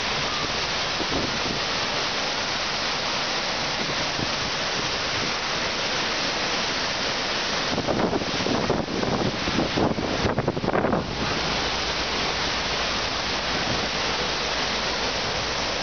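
Steady rush of water pouring over the FlowRider surf simulator's wave surface, with a few seconds of louder, uneven surging about eight seconds in.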